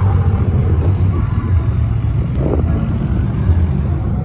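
Vehicle engine running steadily with a low rumble, with a brief knock about two and a half seconds in.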